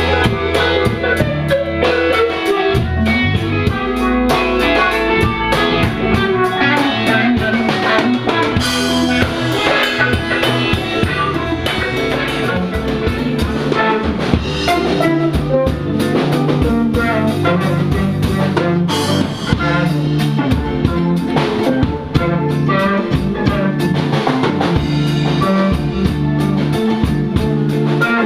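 Live band playing: a drum kit keeping a steady beat under guitar and a low bass line.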